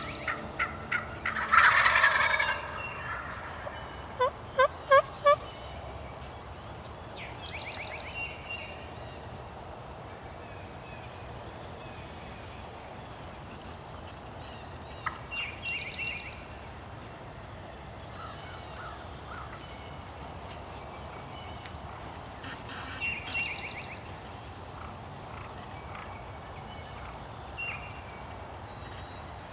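Wild turkey gobbling, one loud gobble about two seconds in followed by a run of four short, sharp pitched notes. Fainter, more distant gobbles repeat every several seconds after that.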